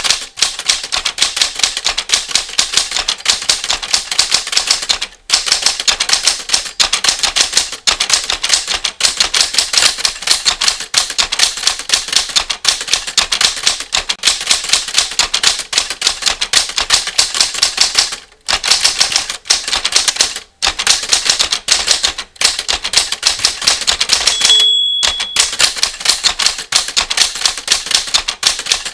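Typewriter keys striking in a rapid, steady run of clicks, several a second, with a few short pauses between bursts. About three quarters of the way through, the typewriter's end-of-line bell rings once in one of the pauses.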